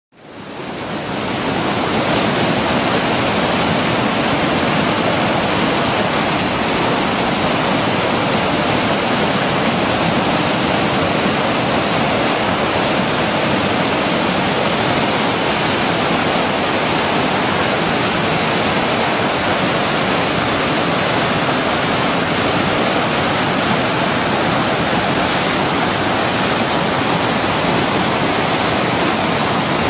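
The Baptism River in flood, swollen by heavy rainfall, rushing in a loud, steady, unbroken churn of whitewater. The sound fades in over the first second or so.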